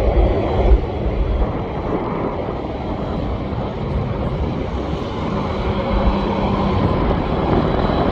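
Airliner jet engines running: a steady rumble with a faint high whine.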